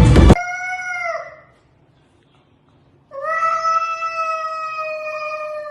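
A cat meowing twice in long, drawn-out calls: a first call of about a second that drops in pitch at the end, then after a short pause a longer, steadily held call.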